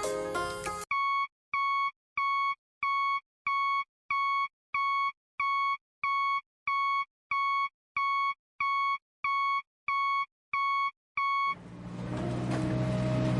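A steady run of electronic beeps, about one and a half a second, each a single high tone like a reversing alarm. Near the end the beeping stops and a vehicle engine sound starts and grows louder.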